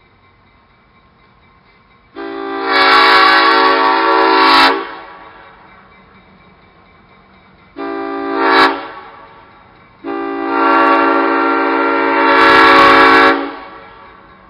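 Locomotive air horn sounding a long blast, a short one, then another long blast: the close of the standard long-long-short-long grade-crossing signal.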